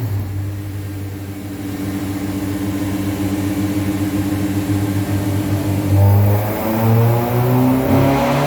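Car engine running at a steady speed, then revving up from about six seconds in, its pitch rising.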